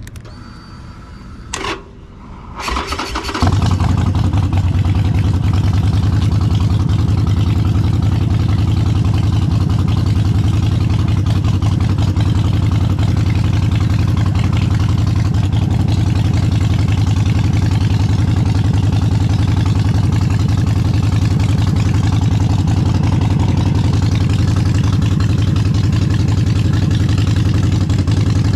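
Harley-Davidson Forty-Eight's air-cooled V-twin with aftermarket exhaust being started: a click, a brief crank, then the engine catches about three seconds in and settles into a steady, loud, deep idle.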